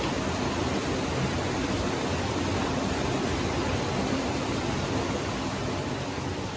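Steady rush of cascading water, an even roar with no breaks.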